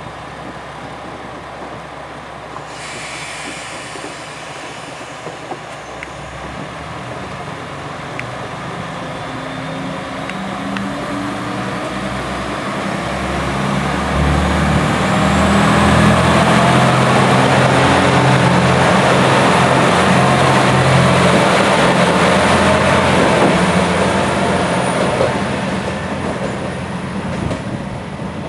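JR West KiHa 120 diesel railcar's engine working hard as the car accelerates, growing louder and higher in pitch with a rising high whine, then easing off near the end.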